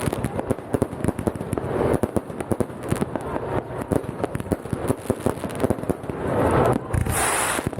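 Many fireworks going off at once: rapid, irregular bangs and crackling, with a denser swell of crackle and hiss near the end.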